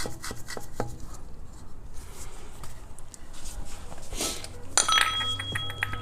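A socket ratchet clicks in quick succession as the oil drain plug, fitted with a new crush washer, is run into the oil pan. Near the end there is a bright ringing metal clink of tools.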